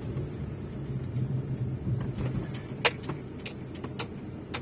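Maruti Suzuki Swift Dzire engine running smoothly as the car moves, with no grinding or rubbing noise now that a new engine mount is fitted. A few sharp clicks come in the second half.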